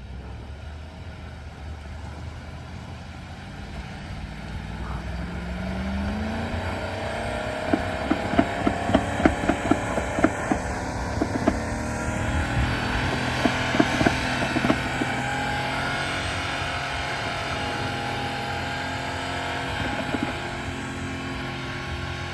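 A boat motor runs steadily, its pitch rising about five seconds in. A run of sharp knocks comes through the middle.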